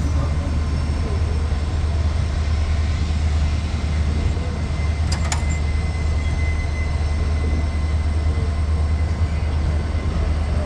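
Indian Railways passenger train with ICF coaches running, a steady low rumble with noise over it, and two sharp clicks close together a little past halfway.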